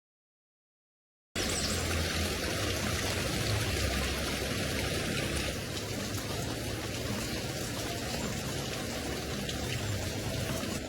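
Steady flowing river water, an even rushing sound that begins after about a second of complete silence.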